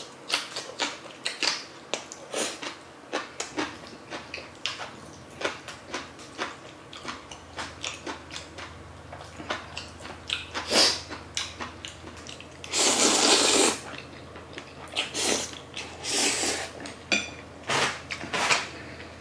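Close-miked eating sounds of spicy jjajang ramen noodles and green onion kimchi: a steady run of wet chewing clicks and smacks, about two a second. About two-thirds of the way in there is one loud hissing rush lasting about a second.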